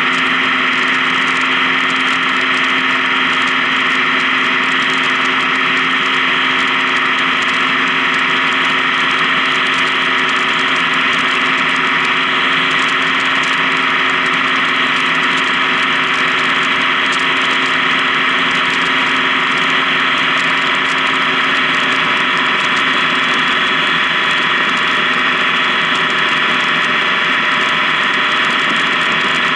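Honda Gold Wing touring motorcycle cruising at a steady speed, its engine running evenly under a steady rush of road and wind noise.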